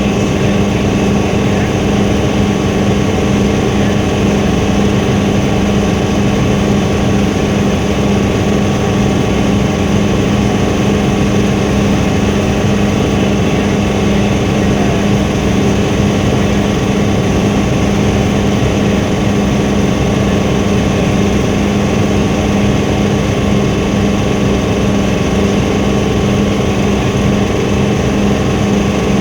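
Helicopter in flight heard from inside the cabin: a loud, steady drone of rotor and engine with a constant low hum and a few fixed higher tones.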